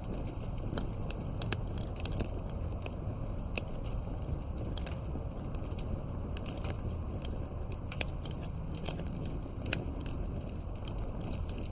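Campfire burning: a steady low rumble of flames with irregular sharp pops and crackles from the wood.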